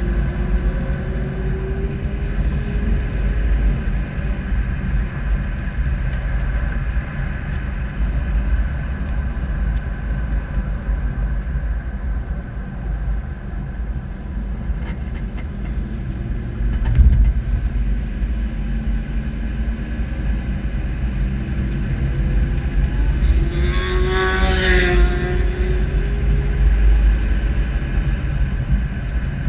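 Heavy low rumble of a slow-moving SUV with road and wind noise on the bumper-mounted microphone, plus a single thump about 17 s in. Around 24 s a sport motorcycle passes close by, its high engine note sweeping up and down.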